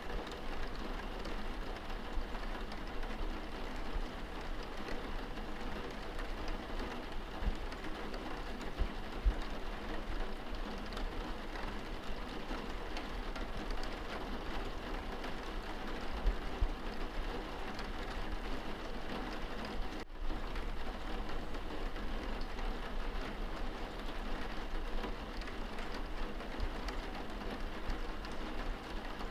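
Steady rain pattering on a window pane, heard from indoors, with scattered light drop ticks and a few soft low knocks. There is a split-second dropout about two-thirds of the way through.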